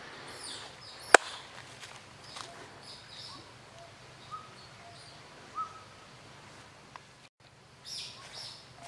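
Small birds chirping and twittering in short high notes, with a few lower, clear whistled notes and one sharp click about a second in.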